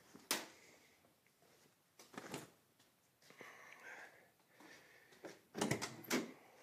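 Handling noises in a small room: a sharp knock just after the start, another about two seconds in, faint rustling, then a quick cluster of louder knocks and clatters near the end.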